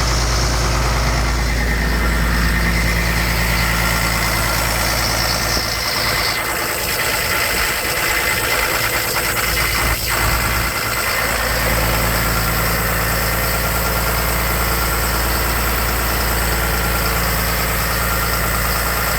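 Engine of a Sullivan Industries D7500 portable air compressor running steadily. Its deep low rumble thins out from about six seconds in and returns about twelve seconds in.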